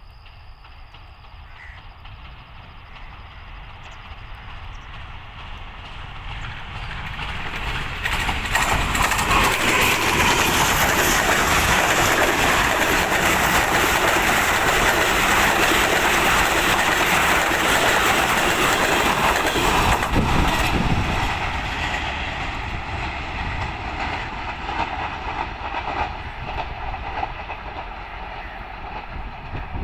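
A passenger train led by a ZCU-20 (GE U20C) diesel-electric locomotive passes through a station at speed. It builds up as it approaches, is loudest from about 8 s to 21 s as the locomotive and coaches go by with dense rattling wheel and rail noise, then fades slowly as the last coaches move away.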